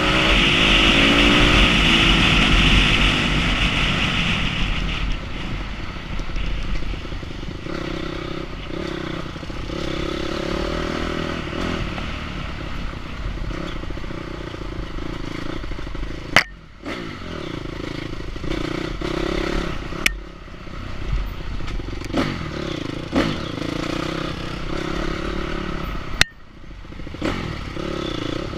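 Enduro motorcycle engine revving and running on an off-road ride, with clattering and a few sharp knocks, the loudest about 16 and 26 seconds in.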